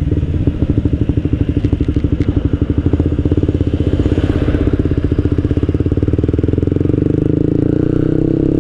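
Suzuki GSX-R150 single-cylinder engine running through an aftermarket Akrapovic-style slip-on exhaust with no dB killer fitted, giving a deep, bassy note. In the first half it runs at low revs, with the separate exhaust pulses clearly heard; the note then smooths out and the revs climb near the end.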